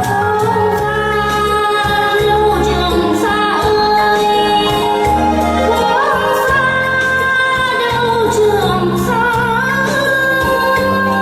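A woman singing a slow song, holding long notes with vibrato over a band accompaniment with a steady bass line.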